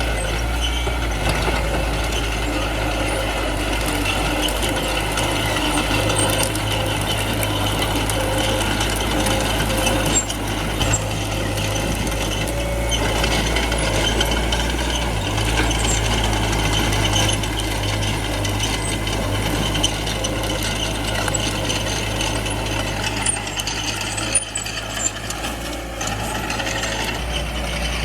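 Small crawler bulldozer working: its diesel engine running steadily under the continuous rattling clatter of its steel tracks and undercarriage.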